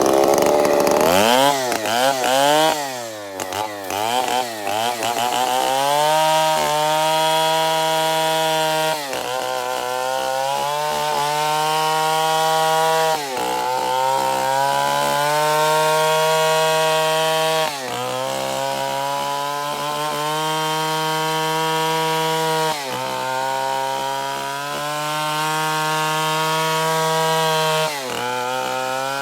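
Stihl 070 two-stroke chainsaw blipped up and down a few times, then held at high revs while cutting wood, its pitch sagging briefly every four or five seconds.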